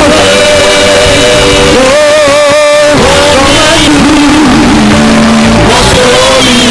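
Loud live church worship music with singing, long held notes wavering slightly in pitch.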